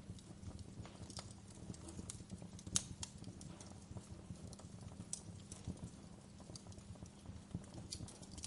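Wood fire crackling: irregular sharp pops and snaps over a low steady rumble, with one louder pop about three seconds in.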